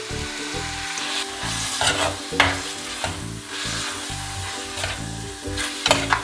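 Raw chicken and sliced onion sizzling in coconut oil in a pan while being turned over by hand, with several short scraping rustles from the mixing.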